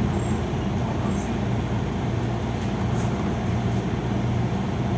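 Youngman City-Liner bus under way, heard from inside the cabin: its MAN D0836LOH-64 six-cylinder diesel runs with a steady low hum over road noise, with a few faint light rattles.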